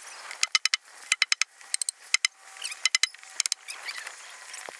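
Metal clinking from nails and a hammer on a coop build: sharp ringing clicks in quick runs of three or four, spread over the first three and a half seconds.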